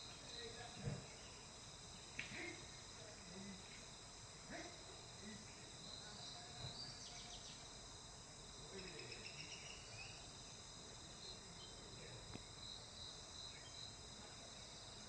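Faint, steady insect chorus: high continuous trilling with a pulsing beat, with a few soft knocks or rustles now and then.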